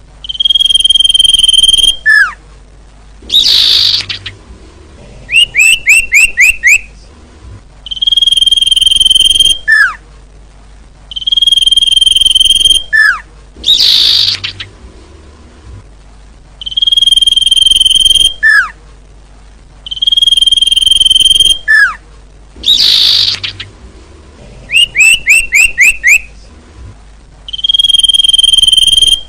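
Recorded birdsong lure call played in a loop: a held high whistle about a second and a half long, a short falling note, a harsh rasping burst, then a quick run of five or six chirps. The same sequence repeats roughly every nine to ten seconds, meant to draw wild birds in.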